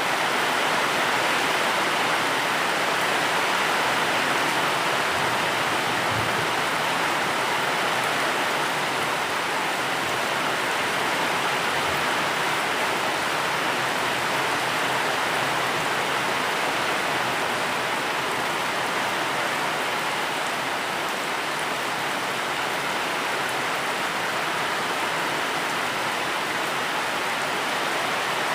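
Steady rainfall, an even hiss of rain with no distinct drops or thunder.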